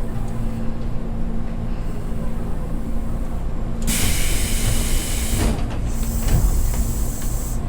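Electric commuter train on the Tobu Skytree Line running with a steady low rumble and a constant electric hum. About four seconds in, a loud hiss of compressed air starts, drops out briefly around six seconds and comes back.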